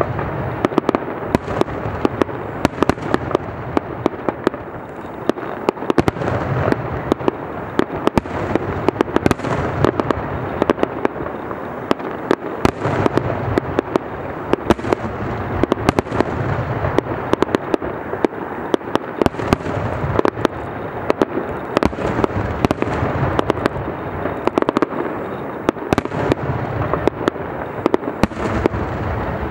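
Aerial fireworks display: shells bursting in a dense, unbroken run of bangs and crackles.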